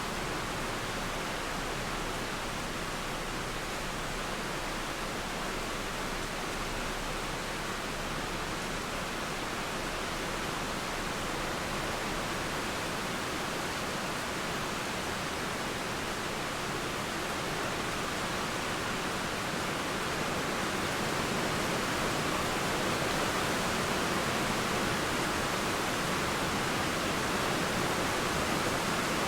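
Steady rain falling with a flowing river, an even, continuous hiss that swells slightly about two-thirds of the way through.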